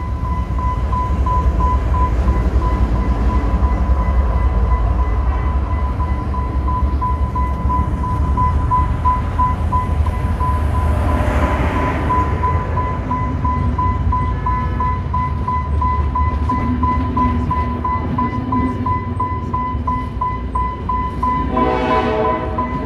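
Train running through the station with a heavy, steady low rumble, a steady high-pitched tone over it, and a swell of rushing noise about halfway through. Near the end a brief pitched blast sounds, like a horn.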